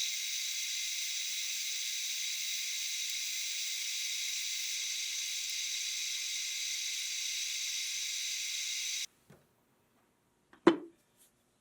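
A machine running with a steady high whine and hiss, stopping suddenly about nine seconds in, then a single sharp knock.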